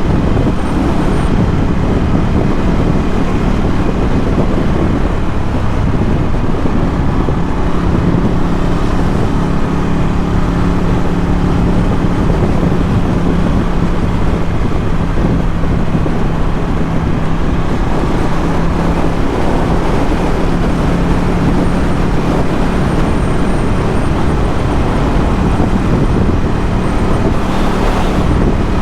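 Ducati Scrambler 1100's air-cooled L-twin engine running through a Termignoni exhaust, riding along at a steady pace with a steady engine note.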